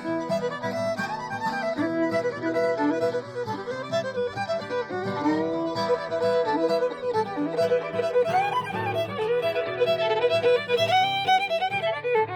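Fiddle playing a bluegrass fiddle tune, a running melody with slides between notes over lower sustained notes.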